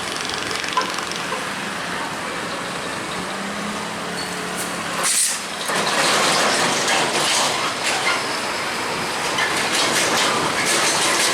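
Heavy road traffic with trucks passing: a steady low engine drone, then louder engine and tyre noise from about six seconds in as a truck goes by.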